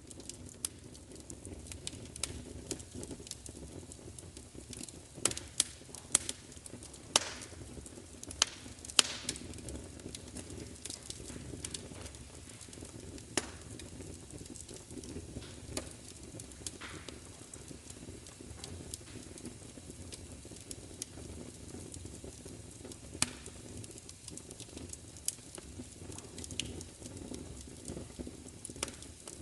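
Wood fire crackling: irregular sharp pops and snaps over a steady low rumble and hiss, the pops coming thickest in the first third.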